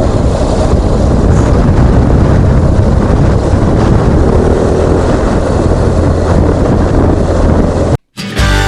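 BMW R1200GS flat-twin engine running under way, mixed with heavy wind rush on a helmet-mounted action camera, steady and loud. It cuts off suddenly near the end, and music starts.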